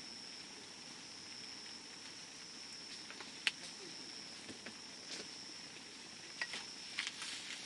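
Campfire burning with a steady hiss and scattered crackles and pops. The sharpest pop comes about three and a half seconds in, and there is a small cluster of crackles near the end.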